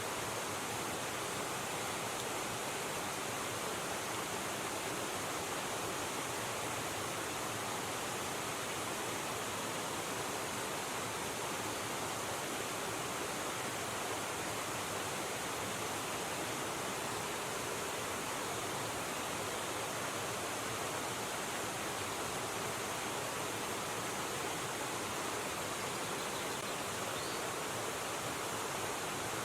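River water rushing, a steady even noise that never changes.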